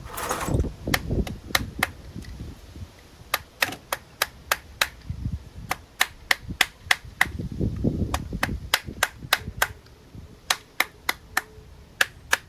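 Sharp clicks repeating about three times a second, with a few low, muffled knocks from handling, as a stubborn carburetor part is worked open on a Briggs & Stratton mower engine.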